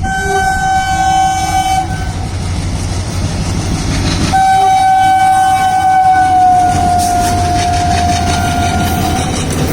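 An Indian Railways express locomotive horn sounding two blasts as the train runs through a station without stopping: a short one of about two seconds, then a long one of about five seconds that sags slightly in pitch. Beneath the horn runs a steady low rumble of locomotive engine and train noise.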